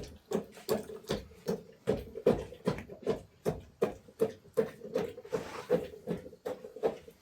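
Steady rhythmic knocking, about two to three sharp strikes a second, over a faint steady hum.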